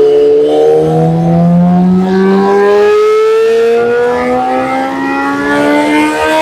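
2013 Yamaha R6's inline-four engine with a full Arrow exhaust, held at full throttle in a dyno pull. It comes in loud at the start, then its pitch rises slowly and steadily as the revs climb.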